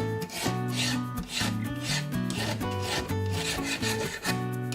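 A metal file being pushed along a knife blade's edge in repeated rasping strokes, about one a second, grinding the edge back to remove chips, over background music.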